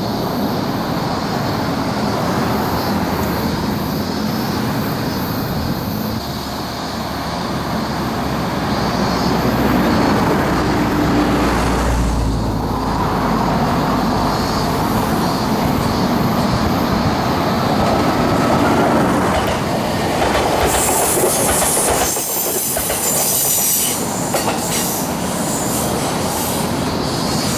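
Fuji Kyuko electric train running along the rails with a continuous rumble of wheels on track. A high-pitched wheel squeal comes in about twenty seconds in and lasts a few seconds.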